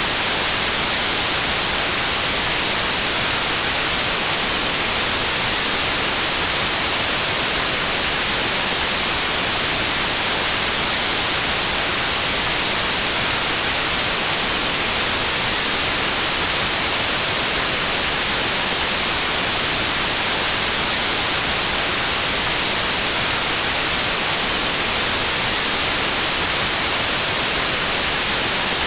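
Steady white noise: an even, bright hiss with no pattern or change.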